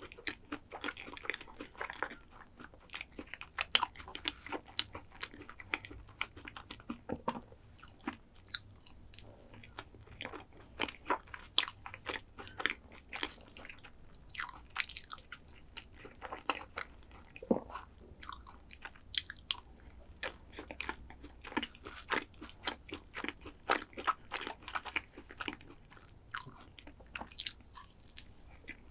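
Close-miked chewing and crunching of chocolate desserts: irregular crisp crunches and clicks, several a second, with no pause.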